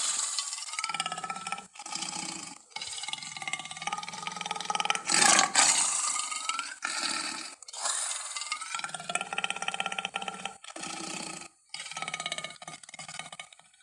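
Big-cat roars and growls taken from lion, tiger and leopard recordings, a run of about ten short calls one after another with brief gaps, the loudest about five seconds in.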